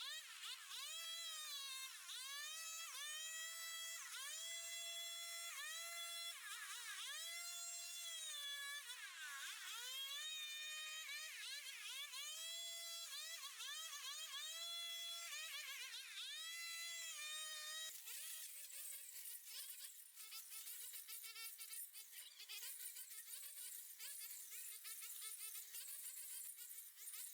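A small high-revving engine buzzing, its pitch dipping and climbing back again and again as it takes load and recovers, as when cutting through overgrowth. About two-thirds of the way through it turns rougher and lower.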